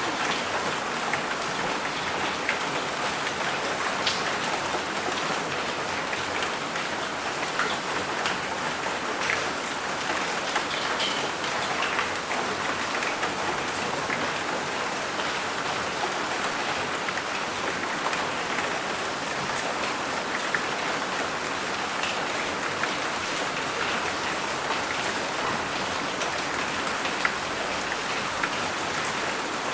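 Steady rain falling, a dense even patter with individual drops ticking sharply through it.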